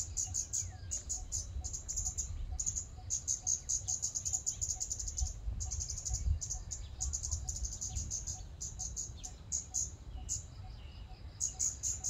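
Scarlet-backed flowerpecker calling: rapid runs of sharp, high-pitched ticking notes broken by short pauses, over a low background rumble.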